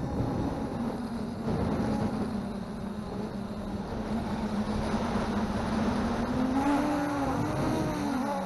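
MJX Bugs 3 quadcopter's brushless motors and propellers whining over a rushing of air. The whine wavers with throttle and swoops rapidly up and down near the end as the drone is flown hard.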